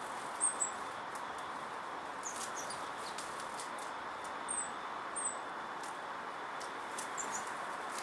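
Several brief, very high chirps from small birds, coming in ones and twos, over a steady hiss of background noise.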